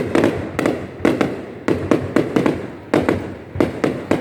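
Fireworks going off in a fast, uneven barrage: sharp bangs about three a second, each followed by a rumbling echo.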